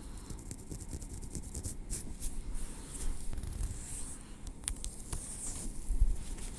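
Tweezers scraping and picking over the scalp and through hair: soft scratchy rustling with many small ticks. A dull low thump about six seconds in.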